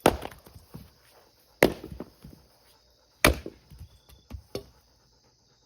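Three hard strikes of a splitting tool into a round of firewood, about a second and a half apart, followed by a few lighter knocks.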